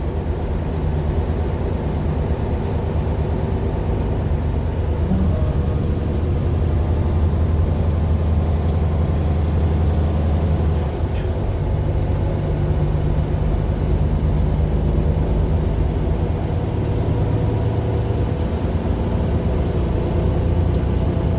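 Mercedes-Benz Citaro LE city bus with its Daimler OM 457 hLA six-cylinder diesel running steadily in a low drone, the engine note changing about halfway through and again near the end.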